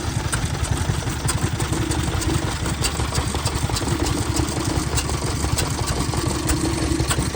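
Small vintage stationary engine running steadily at a rapid, even beat, with sharp irregular ticks from its moving parts.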